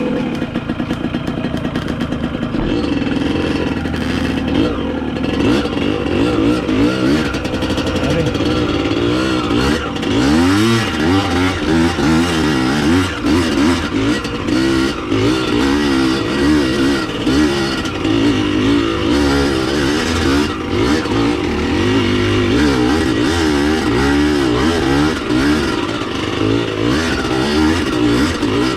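Dirt bike engine running under constantly changing throttle, its pitch rising and falling over and over as the bike is ridden.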